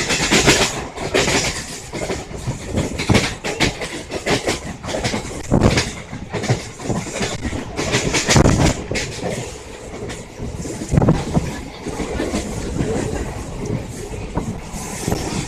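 Mumbai suburban local train running, its wheels clattering irregularly over rail joints and points over a continuous rumble.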